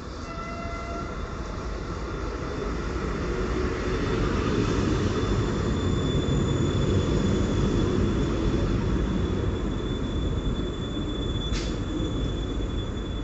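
Electric multiple unit pulling into the platform: the rumble of wheels and motors grows louder as the carriages pass, then eases as the train slows, with a steady high squeal of braking over it. A short hiss sounds near the end.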